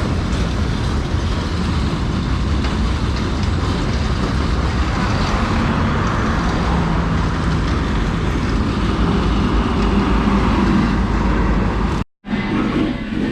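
Wind rushing over the microphone, mixed with the running engine of a Honda CRF150L motorcycle riding along at speed. The sound cuts off abruptly near the end.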